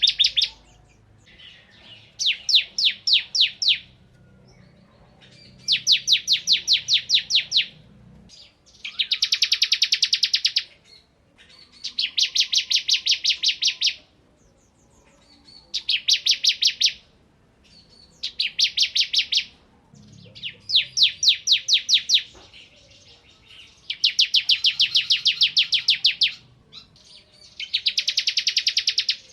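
Bar-winged prinia (ciblek kristal) singing hard: repeated bursts of rapid, high, sharp chip notes, each burst lasting one to two seconds, with pauses of a second or two between them.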